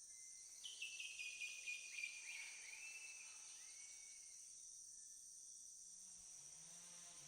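Faint rainforest ambience: a steady high insect drone, with a bird giving a quick run of falling whistled calls from about a second to three seconds in. A faint low hum comes in near the end.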